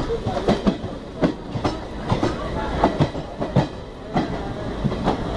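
Train running along the track: a steady low rumble of wheels on rails with irregular clacks a few times a second as the wheels cross rail joints.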